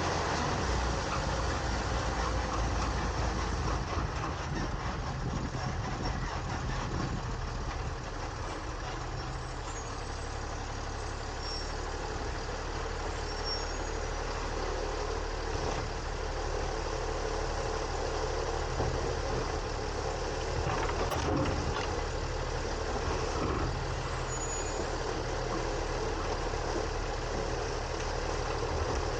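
Garbage truck (2022 Autocar ACX with a New Way Sidewinder side-loader body) running steadily, its engine hum heard from inside the hopper, with one short sharp click about two-thirds of the way through.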